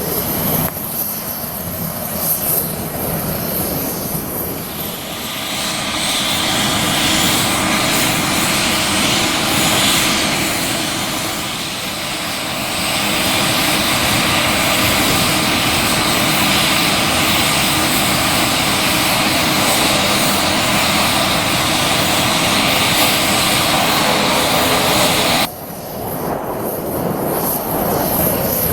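Avro RJ100 airliner's four turbofan engines running with a steady jet noise that grows louder about six seconds in. The sound breaks off suddenly near the end, then picks up again.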